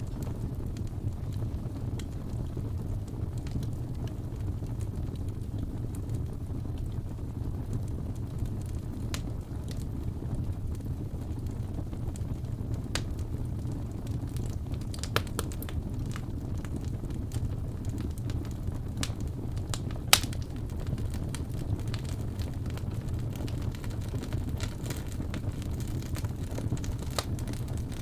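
Wood fire in a fireplace crackling over a steady low rumble of the flames, with scattered sharp pops; one pop about two-thirds of the way through is clearly the loudest.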